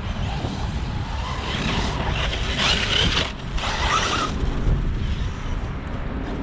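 Arrma Kraton 6S RC monster truck driven hard off-road: the electric motor whining and the tyres churning dirt, loudest in a burst about two to four seconds in, over a steady low rumble.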